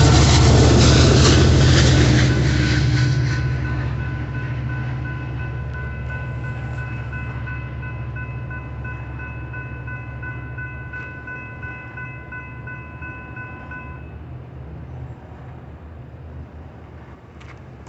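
The tail end of an Amtrak San Joaquin passenger train, its locomotive last, runs over the crossing with loud wheel clatter and rumble. The noise fades away over several seconds to a low lingering rumble. The grade crossing's warning bell rings steadily, then stops abruptly about three-quarters of the way through as the gates start to lift.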